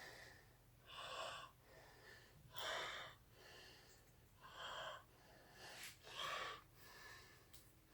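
A man breathing close to the microphone, soft noisy breaths in and out in a steady rhythm, about one every second or so, alternating stronger and weaker.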